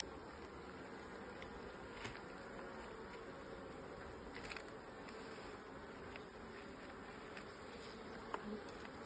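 Honeybee colony humming steadily around an open hive during a frame inspection, with a few faint clicks.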